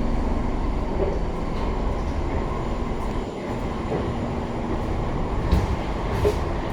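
SMRT C151 metro train running between stations, heard from inside the carriage: a steady low rumble of wheels on the track, with two short sharp clicks about five and a half and six seconds in.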